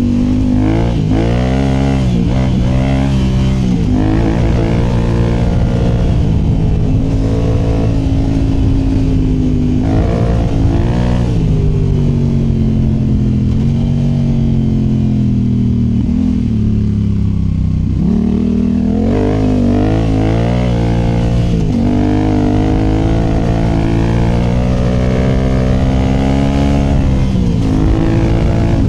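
2019 Yamaha Tenere 700's 689 cc parallel-twin engine through a MIVV Dakar high exhaust, heard close to the exhaust as the bike is ridden. The engine note repeatedly rises under throttle and drops away, with a steadier, lower-revving stretch midway.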